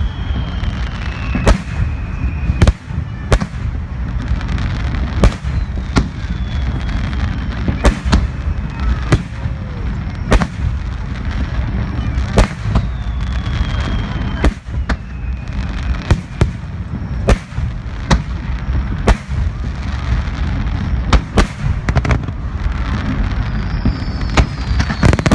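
Fireworks display finale: aerial shells bursting in quick succession, with sharp bangs about once a second over a continuous rumble of further explosions.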